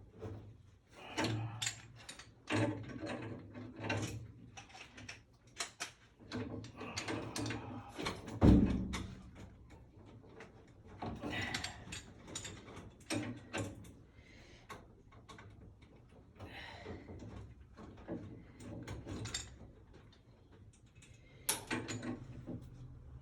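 Work noises from handling tools and parts: irregular clicks, scrapes and clatter, with one loud thump about eight seconds in.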